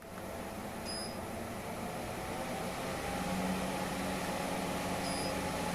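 Steady mechanical hum with a low tone that grows stronger about three seconds in, and two short high beeps, one about a second in and one near the end.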